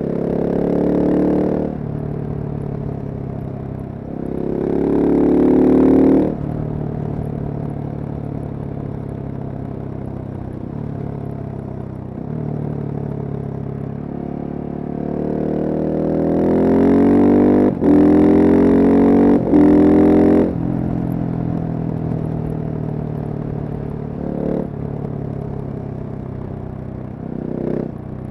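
Husqvarna supermoto's single-cylinder engine, heard from the rider's position, accelerating three times with a rising pitch, the longest pull two-thirds in broken by two quick gear changes. Between pulls it drops back to a steady lower drone off the throttle, with two short throttle blips near the end.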